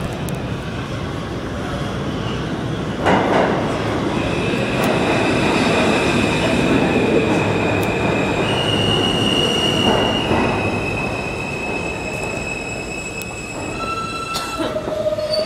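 New York City subway trains, R160A-1 cars, running through the station with loud rumbling and clatter from the wheels and steady high-pitched wheel squeal that shifts in pitch several times. Near the end, lower steady tones come in as the rumble eases.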